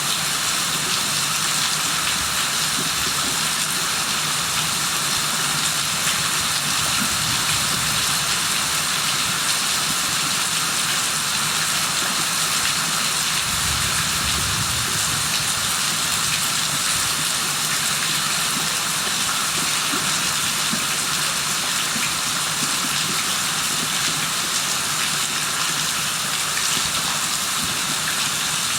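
Steady rain falling, an even hiss of drops on hard surfaces, with a brief low rumble about halfway through.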